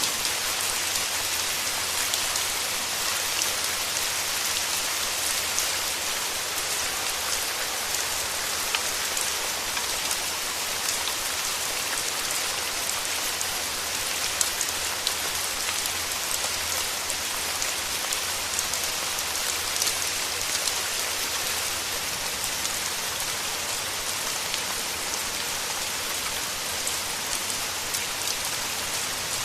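Steady rain falling in a rainforest, a dense even hiss with many close single drops landing as sharp little ticks.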